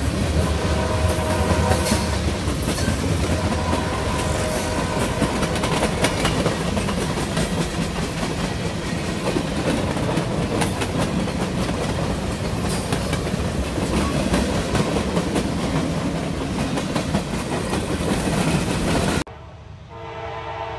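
Freight train cars rolling past at close range: a steady rumble with wheels clicking over the rail joints. Near the end it cuts off suddenly to a quieter scene in which a locomotive horn sounds in the distance.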